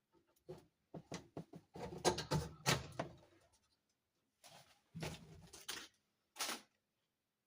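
Clicking and rattling of plastic dollhouse pieces being handled, in two clusters: one about a second in and another around five seconds in.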